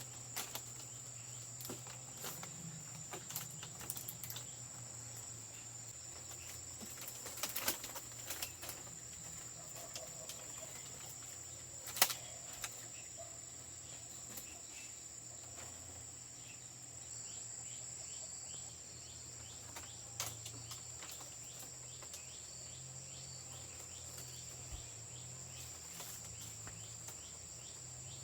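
Steady high-pitched chirring of crickets or other insects. Scattered light knocks and clicks, several bunched together about a third of the way in and one sharper knock near the middle.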